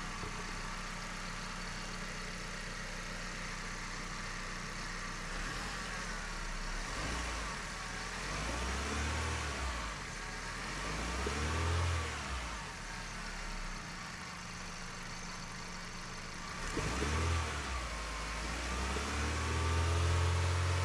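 2010 Hyundai Accent's 1.6-litre four-cylinder engine idling steadily, then revved up and let back down about four times, the last rev held longest. The revs are given to make the downstream oxygen sensor respond.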